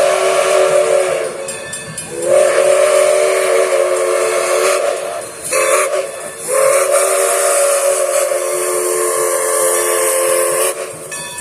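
Steam locomotive's chime whistle blowing a chord of several notes in a grade-crossing pattern: long, long, short, then a long final blast, over a steady hiss of steam.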